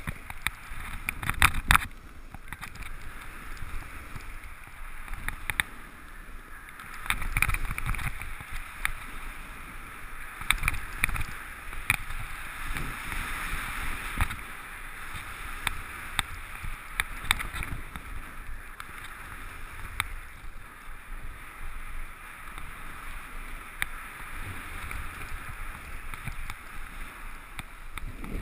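Skis sliding and scraping over groomed packed-powder snow, a continuous hiss with rumbling swells and scattered clicks, along with wind buffeting the microphone.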